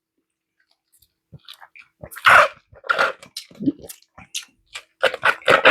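Close-miked eating sounds: wet chewing, lip smacks and mouth clicks, coming in irregular short bursts after about a second of quiet.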